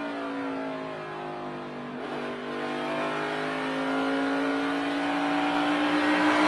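NASCAR Cup car's V8 engine heard from inside the car. The engine note falls for about two seconds as the car slows, then rises steadily as it accelerates again.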